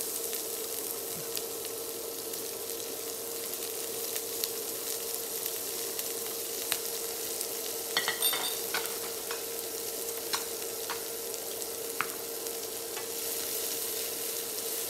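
Diced onion and garlic sizzling in hot oil in a nonstick frying pan, being sautéed until golden. A wooden spatula stirs and taps against the pan now and then, with a cluster of taps a little past halfway, and a steady hum runs underneath.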